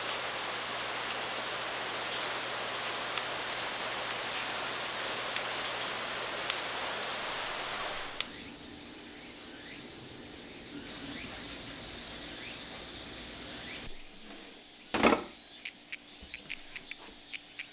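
Steady rain for about eight seconds. It cuts to a steady high-pitched insect trill, like crickets. Near the end it goes quieter, with one short thump and a few small clicks.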